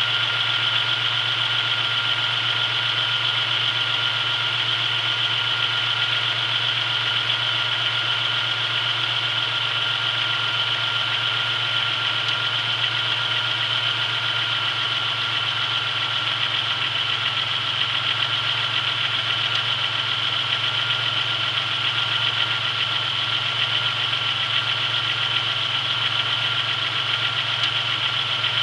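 Chevrolet Beretta's 3100 V6 idling steadily as it warms up after a cold start, with a light knock that the owner has noticed in this engine.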